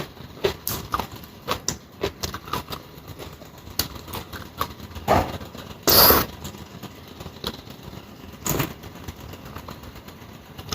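Close-miked eating sounds: irregular chewing and crunching of food with small clicks, and a few louder crunches or clinks, the loudest about six seconds in.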